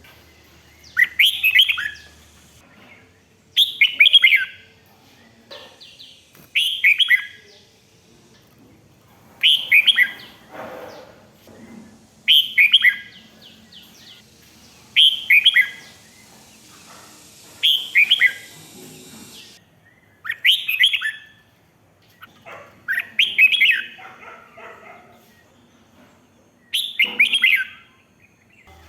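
Red-whiskered bulbul singing: about ten short, loud song phrases, one every two to three seconds, each a quick run of falling whistled notes.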